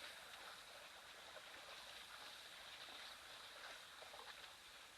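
Faint outdoor bush ambience at a waterhole: a soft steady hiss with a thin, high, steady tone and a few faint scattered chirps and ticks.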